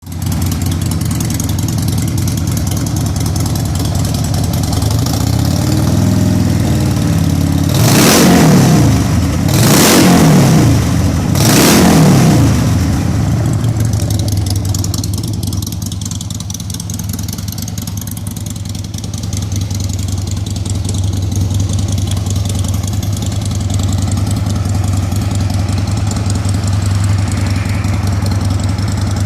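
Engine exhaust idling steadily, blipped once lightly and then revved sharply three times in quick succession about a third of the way in, each rev rising and falling back to idle, before settling back to a steady idle.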